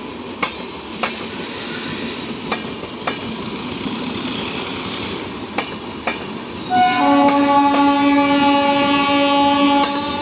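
Departing passenger train, wheels clicking over rail joints as it gathers speed. About six and a half seconds in, the locomotive's multi-tone horn sounds for about three seconds.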